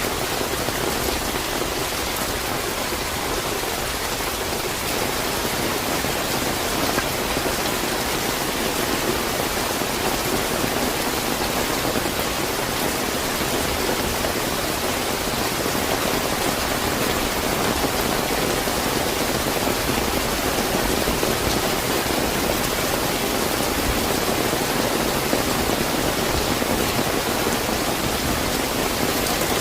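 Steady, fairly heavy rain falling and pattering on surfaces.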